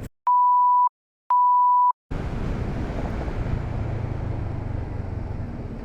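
Two identical steady electronic beeps, each a little over half a second long, set in dead silence; about two seconds in, the low rumble and wind hiss of a moving motorcycle take over.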